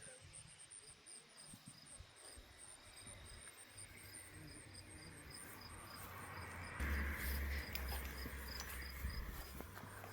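Insects chirping in a steady high-pitched pulse, about four chirps a second. A soft rushing noise swells in the second half, and wind buffets the microphone for a couple of seconds near the end.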